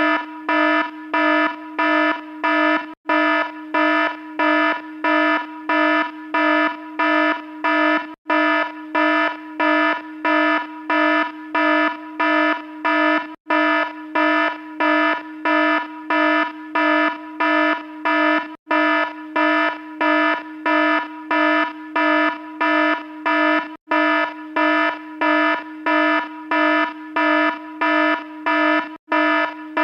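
Alarm sounding a harsh, buzzy repeating beep, about two pulses a second. A brief break comes roughly every five seconds.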